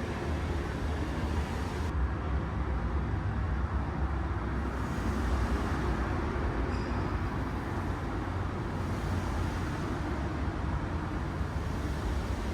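Steady low rumble with a noisy hiss above it, continuous throughout, with no distinct events.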